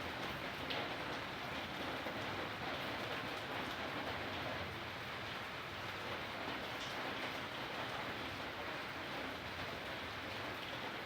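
Steady rain falling and pattering on surfaces, an even hiss with scattered faint drop ticks.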